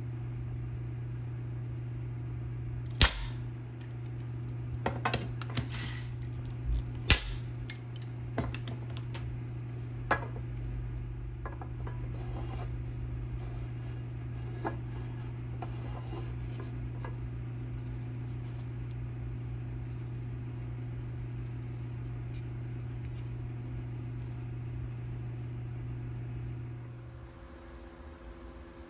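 Steady low electric hum, with a few sharp clicks and knocks of metal parts or tools being handled in its first half. The hum stops near the end.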